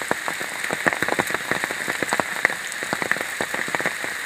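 Rain falling, with many close drops ticking irregularly.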